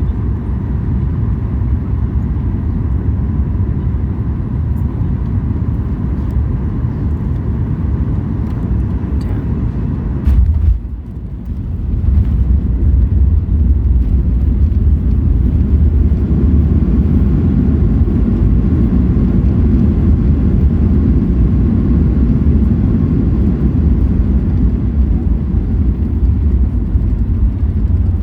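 Boeing 737 MAX 8 cabin noise heard from a passenger seat: a steady low rumble of engines and airflow. About ten seconds in there is a brief break, and after it the rumble is louder.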